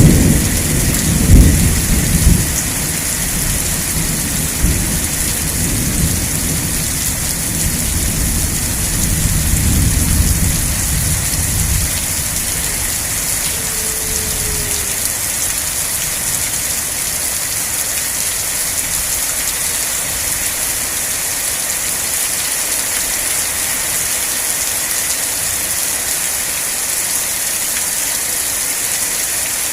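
Steady heavy rain with a rolling thunder rumble. The thunder peaks loudest in the first two seconds and dies away about twelve seconds in, leaving the rain hissing on its own.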